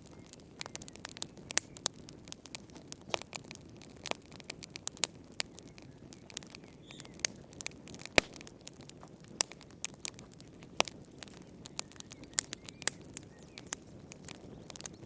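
Fire crackling in a fireplace: irregular sharp pops and snaps, a few of them loud, over a low steady hiss of the flames.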